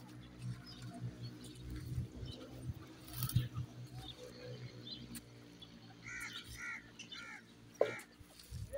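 Birds calling: a quick run of four short, evenly spaced calls about two thirds of the way in, over a steady low hum.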